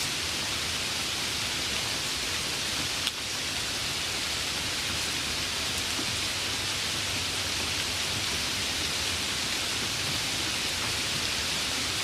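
Steady, even rainfall, a dense constant hiss of falling rain, with one sharp tick about three seconds in.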